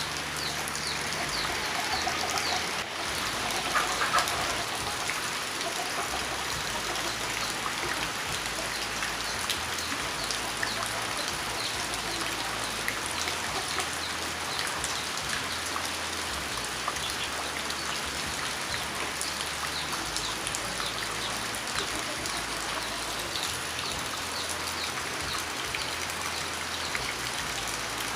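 Steady rain falling, a dense spread of small drop hits over an even hiss of water. A few faint bird calls sound in the first few seconds.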